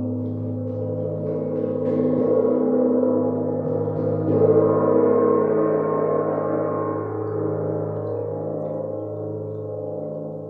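A gong ringing with many overlapping sustained tones, swelling after soft strokes about two and four seconds in, then slowly dying away.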